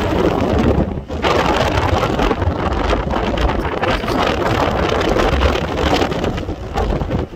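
Strong gusting wind buffeting the camera microphone, a loud, deep rumbling roar that briefly eases about a second in.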